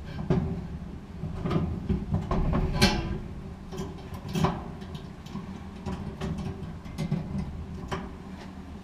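Knocks, clicks and scrapes of metal dryer parts being handled while a GE gas dryer's drive motor is fitted, with a short scraping screech about three seconds in, over a steady low hum.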